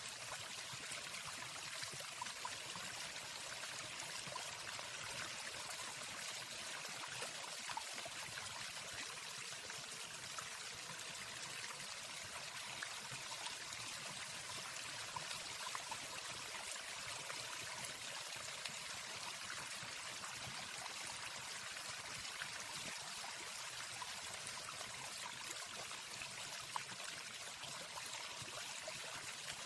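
Steady rushing of a waterfall: an even, continuous hiss of falling water with no birdsong, at a low, unchanging level.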